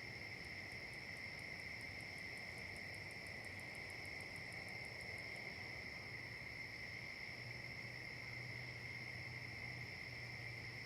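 Faint steady chorus of crickets and other insects, a continuous high trilling. From about half a second in to about five seconds in, another insect adds a rapid high ticking of about six pulses a second.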